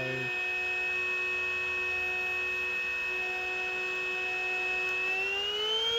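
Cordless battery vacuum cleaner motor running on its low setting with a steady whine, its clogged filter now cleaned so it keeps running. Near the end the whine climbs in pitch as it is switched up to high.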